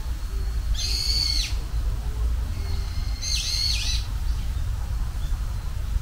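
Two short, clear whistled bird calls about two and a half seconds apart, each rising at the start and dropping away at the end, over a steady low rumble.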